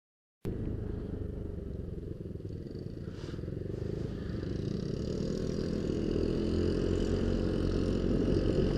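Yamaha Aerox scooter riding along, its engine and the road and wind noise making a steady low rumble. It starts abruptly just after the beginning and grows gradually louder.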